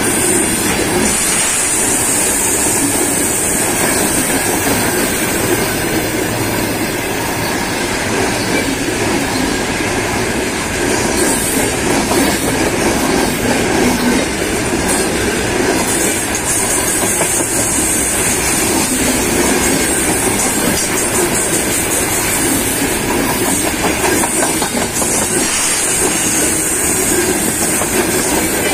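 Freight train wagons, mostly covered hopper cars, rolling past close by: steady loud rumble and clatter of steel wheels on the rails. A high hiss fades in and out above the rumble several times.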